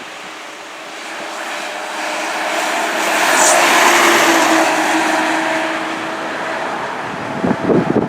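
Fire engine driving past, its engine and tyres swelling to their loudest about three to four seconds in and then fading away. Gusts of wind buffet the microphone near the end.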